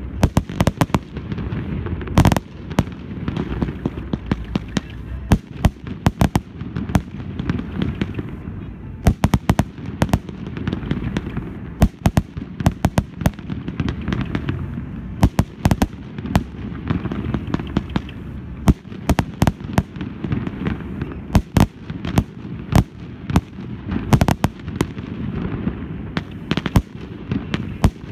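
Aerial fireworks bursting in a rapid, irregular series of sharp bangs and crackles over a continuous low rumble.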